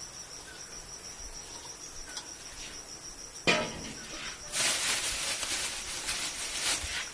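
Steady high-pitched trill of insects, likely crickets, throughout; a sharp knock about halfway through, then a louder hissing, rustling noise for about two and a half seconds near the end.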